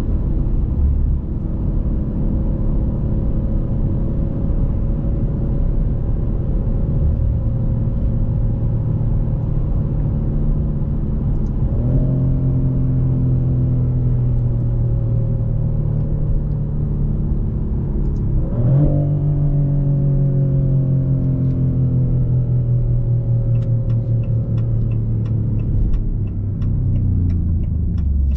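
Twin-turbo 3.0 Nettuno V6 of a Maserati GranTurismo Modena running at low revs while the car slows. The engine note steps up twice at downshifts and sinks again after each one, and a run of light, even ticks comes in near the end.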